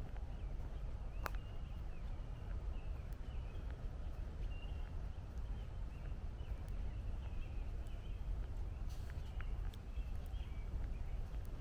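Footsteps walking along a woodland trail, with small birds chirping throughout and a steady low rumble of distant traffic underneath; a sharp click about a second in.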